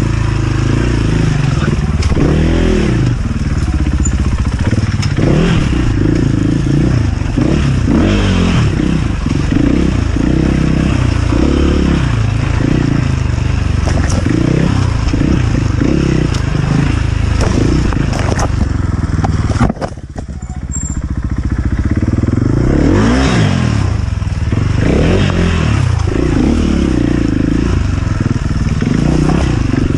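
Enduro dirt bike engine revving up and down over and over under throttle. About two-thirds of the way through the throttle eases off briefly, then the revs climb again.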